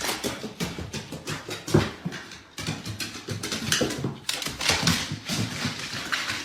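A dog making noises amid a busy run of short, irregular scuffling sounds.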